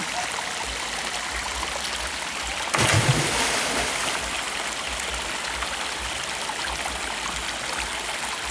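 Waterfall rushing steadily, with a sudden loud splash about three seconds in that fades over a second.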